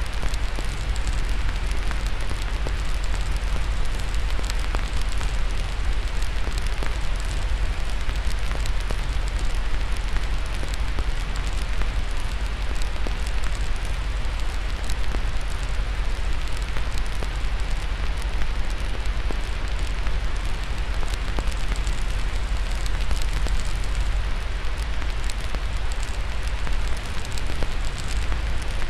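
Steady white noise with a wood fire crackling over it: many small pops and snaps scattered through an even hiss and low rumble.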